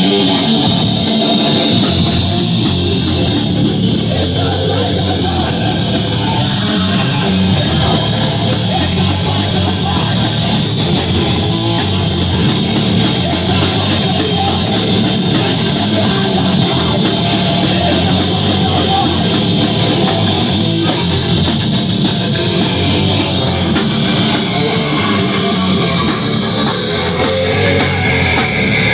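Live heavy rock band playing loudly, with distorted electric guitars and a drum kit in a continuous, dense wall of sound.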